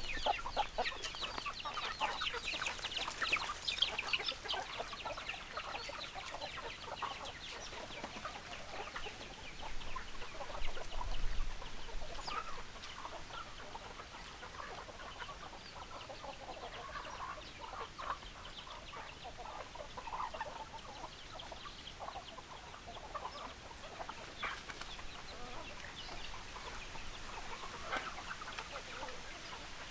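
A flock of chickens clucking, with a dense run of quick, high chirping calls in the first few seconds and scattered hen clucks after. There is a brief low rumble about eleven seconds in.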